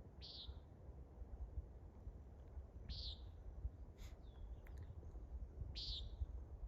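Common nighthawk giving its short, buzzy nasal 'peent' call three times, about three seconds apart.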